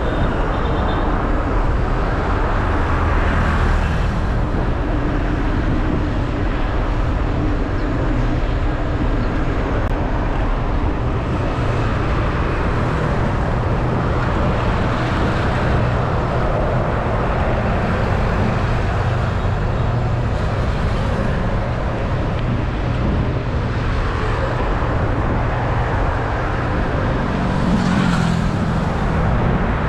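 Steady road traffic noise heard while riding along a highway, with a low rumble and wind, and vehicles swelling past several times.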